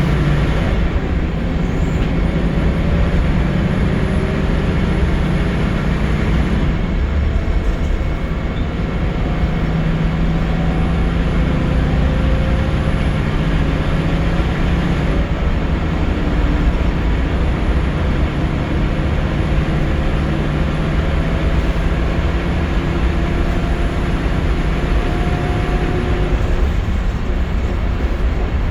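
Scania L94UB single-deck bus heard from on board, its nine-litre five-cylinder diesel pulling under load with a pitch that climbs and then drops three times as the automatic gearbox changes up, over steady road and tyre noise.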